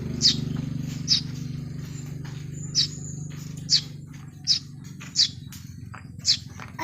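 Small birds chirping: about seven short, high, falling chirps, roughly one a second. A low rumble underneath fades away over the first few seconds.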